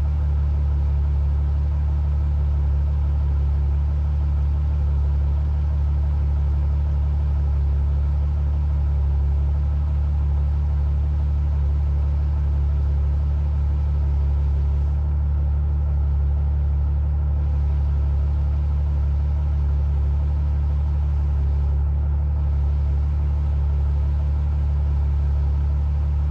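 Ferrari GTC4Lusso with a Capristo exhaust idling steadily, a low, even exhaust note that holds unchanged throughout.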